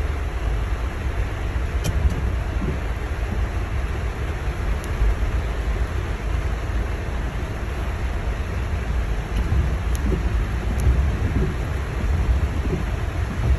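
Heavy rain drumming on a car's roof and windshield, heard from inside the car, as a dense steady hiss over a steady low rumble, with a few sharp ticks.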